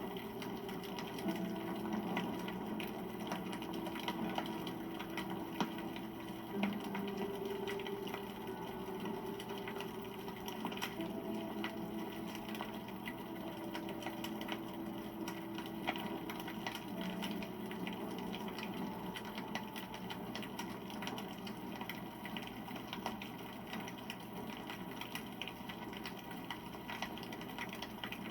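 Wood campfire burning with dense, steady crackling and popping, with a low hum that comes and goes in the background.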